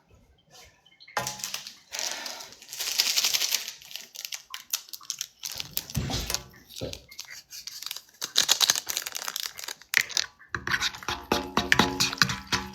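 A plastic instant-noodle packet crinkling and tearing open, with rustling and clicks. Music starts near the end.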